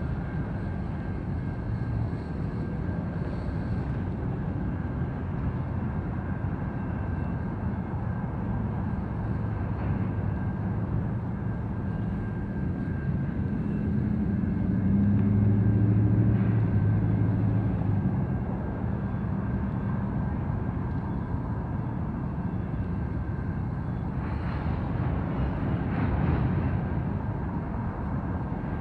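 Freight train of gravel cars rolling past, a steady low rumble of wheels on rail. About halfway through an engine drone swells up for a few seconds and fades.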